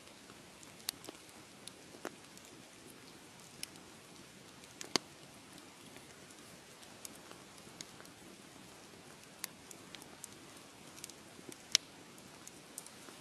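Wood fire crackling: a soft steady hiss with scattered sharp pops, the loudest about five seconds in and again near the end.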